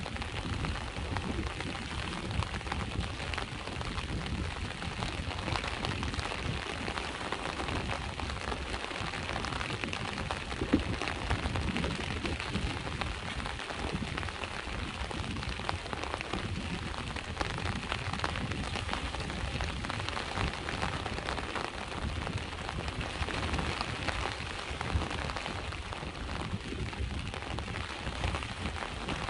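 Steady rain falling and pattering on surfaces, mixed with the low wash of sea waves, with one louder single tap about eleven seconds in.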